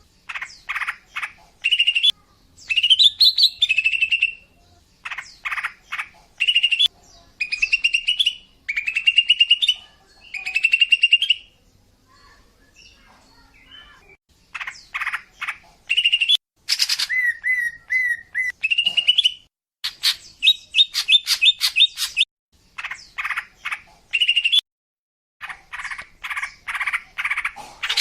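Female cucak ijo (green leafbird) calling, played as a lure to draw in males. Phrases of rapid repeated chip notes alternate with rising whistled notes, and there are short pauses between phrases and a longer pause about halfway through.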